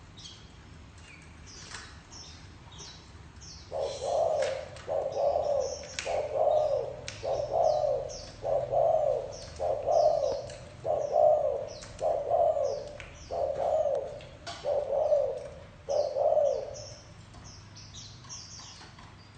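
Spotted dove giving the soft bow-coo ('gù') call: a run of about eleven evenly spaced coos, roughly one a second, starting about four seconds in and stopping near the end. Small birds chirp high above it throughout.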